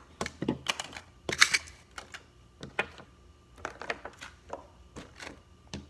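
Irregular clicks and light taps of small objects, such as plastic containers and slime supplies, being handled and set down on a table during clean-up.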